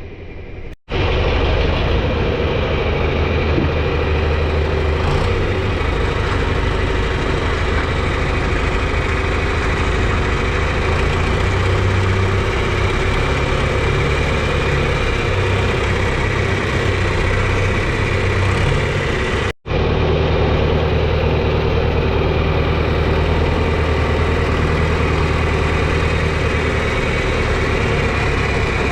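A vehicle engine running steadily at close range, cut off abruptly twice, about a second in and again about twenty seconds in.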